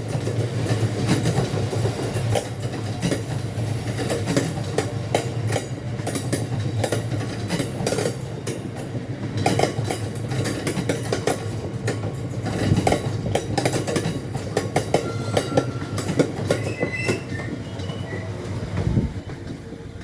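Wagons of a stone train rolling past, wheels knocking over rail joints and junction pointwork in an uneven clickety-clack over a steady rumble, with a few brief faint squeals near the end.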